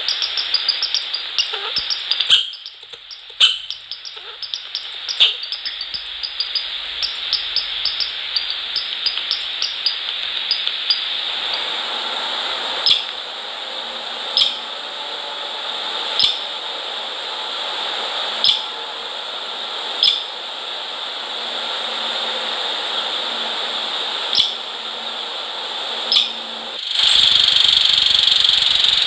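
Small birds pecking and tapping at seed in a wooden bird feeder. There are quick runs of light ticks at first, then single sharper taps every couple of seconds over a steady outdoor hiss. The hiss grows louder near the end.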